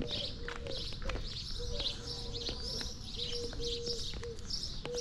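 Small birds chirping busily throughout, with a low, steady note sounding in short repeats beneath them.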